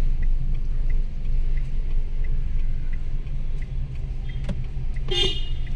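Steady low rumble of a car's engine and road noise heard from inside the moving car, with faint, evenly spaced ticks. A brief higher-pitched sound comes near the end.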